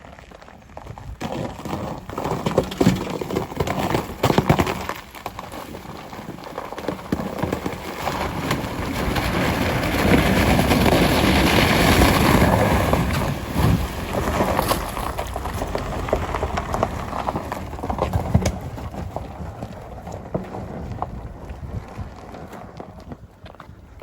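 SsangYong Rexton Sports pickup driving over a frozen creek, its tyres cracking and crunching through the ice. Sharp knocks and cracks come in the first few seconds, then a long rush of noise swells around the middle and fades.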